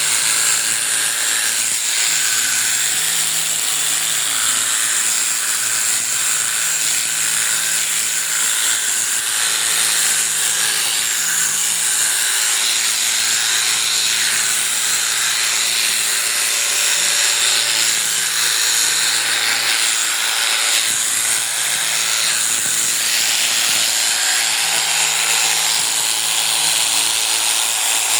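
Electric sheep-shearing clippers running steadily through the fleece, a continuous high buzzing hiss.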